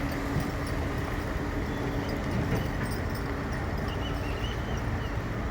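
Mercedes-Benz 2635 truck's diesel engine running steadily, a constant low rumble.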